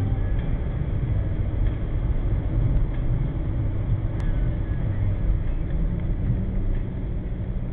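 Suzuki Swift Sport's 1.6-litre four-cylinder engine and tyre noise heard from inside the cabin while cruising, a steady low rumble.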